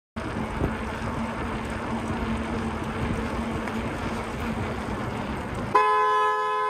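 Steady road and engine noise from a moving car, then a car horn starts suddenly near the end and is held.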